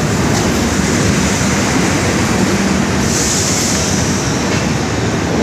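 Train running on the rails, a steady loud rumble of wheels and carriages, with a brief hiss about three seconds in.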